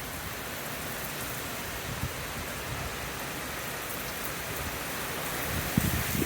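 Steady hiss of heavy hurricane rain and wind, with a couple of low gusts buffeting the microphone near the end.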